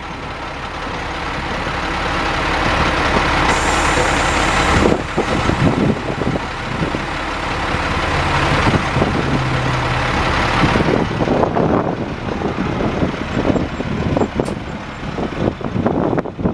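International 4900 dump truck's DT466 diesel engine running under load, building up over the first few seconds, with a short hiss about four seconds in.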